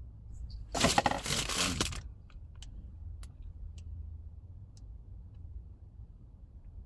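Parts and tools being handled: a rattling scrape about a second in that lasts about a second, then a few light clicks.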